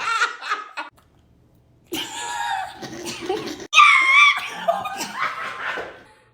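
People laughing and making silly vocal noises. After about a second of quiet, the sound cuts in abruptly with voices, and a loud, high voice swoops up and down about four seconds in.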